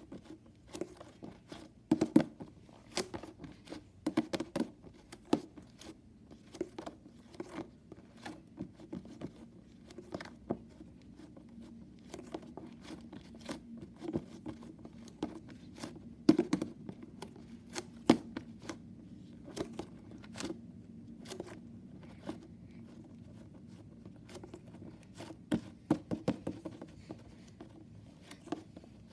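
A homemade tape squishy filled with slime being squeezed and kneaded by hand: irregular clicks, wet pops and crinkles at an uneven pace.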